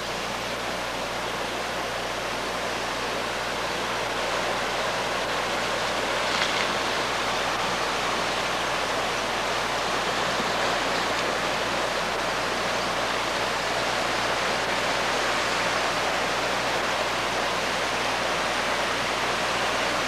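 Flash-flood water rushing steadily down a wadi channel, a continuous roar of fast-flowing floodwater that grows slightly louder over the stretch.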